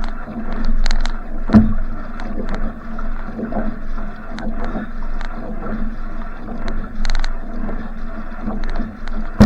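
Va'a outrigger canoe paddled hard in a sprint finish: regular paddle strokes splashing into the water over a steady rush of water along the hull.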